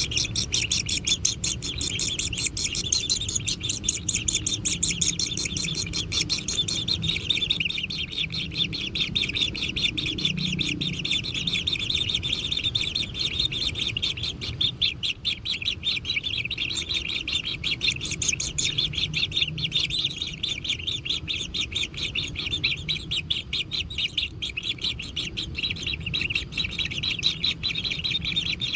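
Kingfisher nestlings begging: a dense, continuous chatter of rapid high chirps from several chicks, with no pauses.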